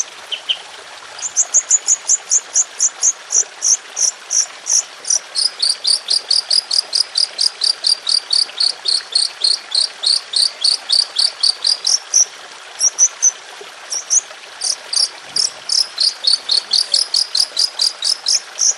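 Songbird singing a long run of rapid, sharp, high chirps, about five a second, broken by a few short pauses: a 'tembakan' (shot) phrase of the kind used in masteran recordings to tutor caged songbirds.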